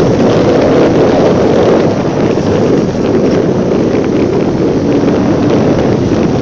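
Wind buffeting a phone microphone on a moving motorcycle, with the motorcycle's engine running steadily underneath.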